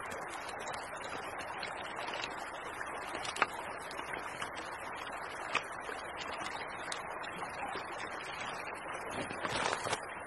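Small creek running with a steady, even rush of water, and a few faint isolated clicks.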